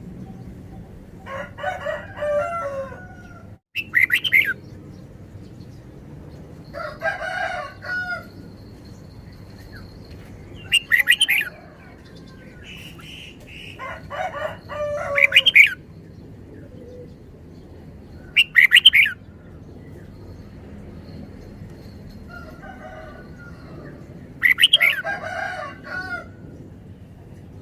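Red-whiskered bulbul singing short, rapid, varied phrases, about eight of them spaced a few seconds apart.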